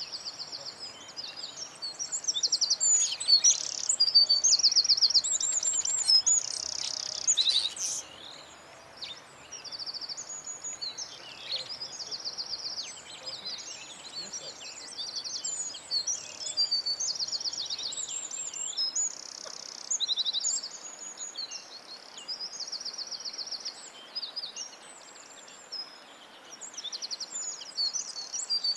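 Several songbirds singing and chirping together in rapid high trills and short calls. The song is loudest for the first several seconds, then drops abruptly and goes on more softly.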